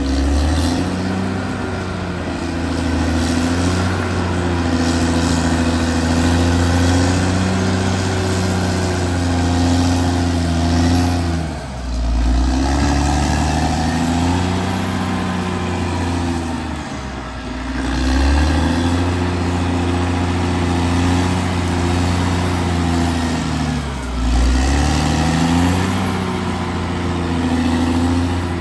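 Caterpillar D6R XL bulldozer's diesel engine working under load, its note sagging in pitch and picking up again about four times.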